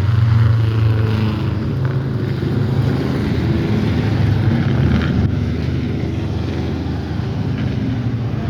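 Vintage Indy-style race car engine running at a steady low speed, a deep even note that slowly gets quieter.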